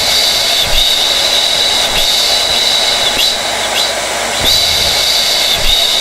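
Hair dryer running steadily: a constant rush of air with a high whine that wavers briefly every second or so.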